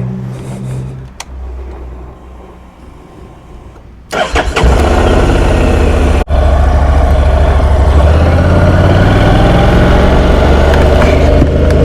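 Honda NC750X parallel-twin engine and wind rush heard from the rider's helmet while riding. A quieter, steady engine hum fades over the first few seconds, then about four seconds in the sound jumps suddenly to a loud, steady engine drone with heavy wind and road noise.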